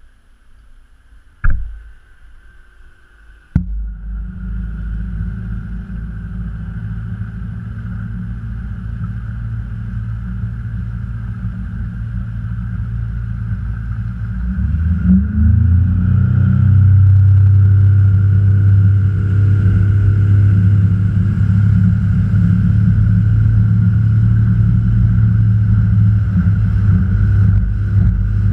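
A boat's motor: a sharp knock about a second and a half in, then the motor's low steady drone comes in suddenly about three and a half seconds in. Near the middle it is throttled up with a rising pitch, then holds louder and steady.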